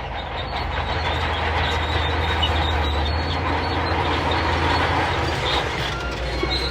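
Shantui crawler bulldozer working: its diesel engine runs steadily under load with the continuous clatter of its steel tracks.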